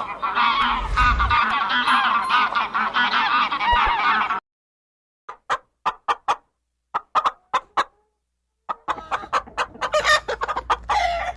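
Geese honking: a flock calling over one another for about four seconds, then a sudden break followed by single short honks with gaps between them, then more calling again near the end.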